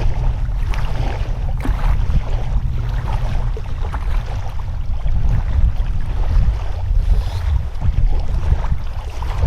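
Wind buffeting the microphone: a loud, uneven low rumble that rises and falls without a break.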